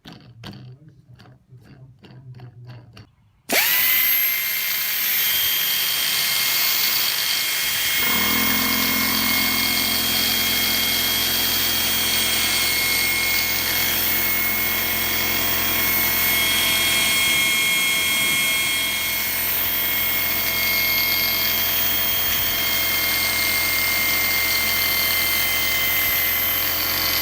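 After a few faint clicks, an electric angle grinder switches on suddenly about three and a half seconds in and runs steadily with a high whine. Around eight seconds in a lower hum joins the sound.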